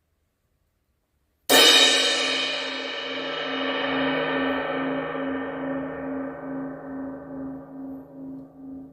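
Omete Knight series 18-inch crash cymbal struck once about a second and a half in, then left to ring. Its wash fades slowly, with the ring wavering as it dies away.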